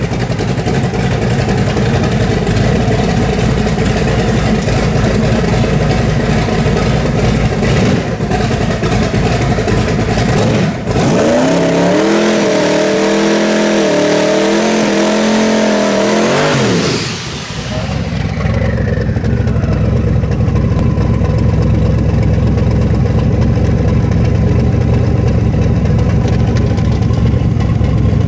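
Twin-turbo big-block V8 running loud, with the pitch wavering up and down in the middle as the revs change, then settling back to a steady run.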